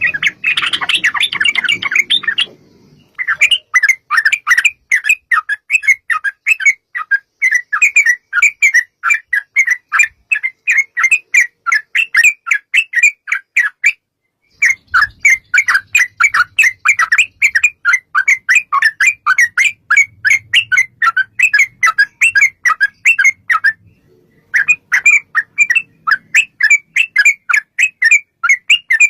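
Yellow-vented bulbul (trucuk) singing a long, rapid, bubbly chattering song of many quick notes. It comes in long runs with brief breaks about 3, 14 and 24 seconds in.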